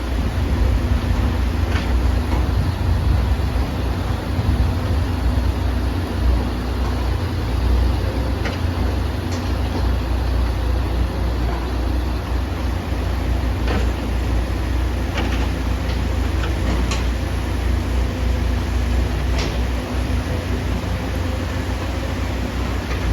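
Heavy excavator's diesel engine running steadily with a deep rumble, with a handful of short sharp knocks scattered through it.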